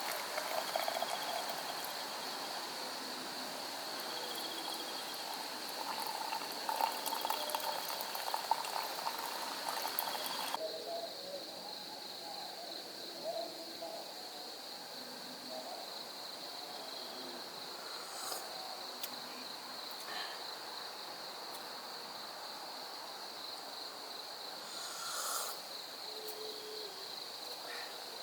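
Outdoor nature ambience: insects chirring in a steady high drone, with short, low hooting bird calls scattered through it. A broad hiss under it cuts off suddenly about ten seconds in.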